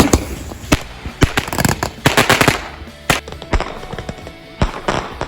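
Fireworks popping and crackling in a rapid, irregular string of sharp bangs, densest about one to two and a half seconds in.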